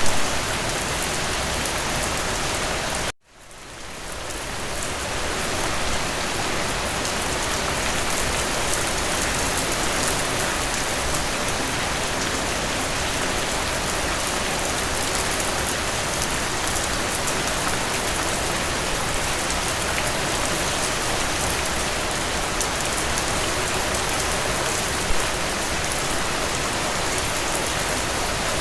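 Steady rainfall, an even hiss of drops. About three seconds in it cuts out suddenly to silence, then fades back up over a couple of seconds, like an edit point in the recording.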